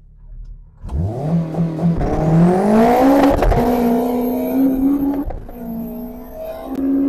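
Turbocharged Honda K20 four-cylinder in a Honda CRX accelerating hard from about a second in, the engine note climbing in two steps and then holding high, easing off and coming back near the end.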